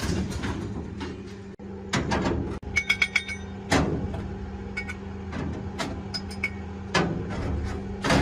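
Small metal parts knocking and clinking, with a quick run of ringing pings about three seconds in, over a steady low hum.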